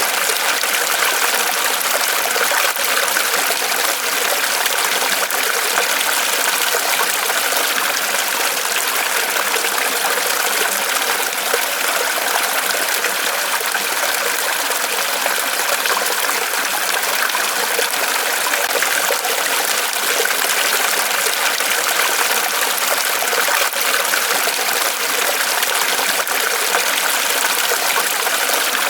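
Water trickling and splashing steadily in a small waterfall pouring from a tree trunk.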